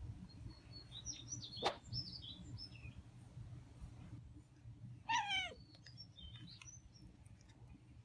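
Wild songbirds chirping in short, high phrases, with a short falling call about five seconds in.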